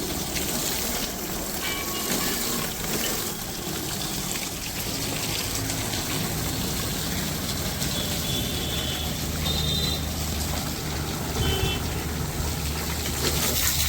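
Pressure washer spraying water in a steady hiss, with a low pump-motor hum underneath.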